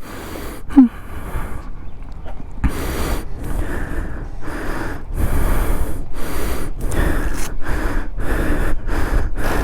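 A person breathing hard close to the microphone: quick, rhythmic puffs of breath about two to three a second, starting a few seconds in.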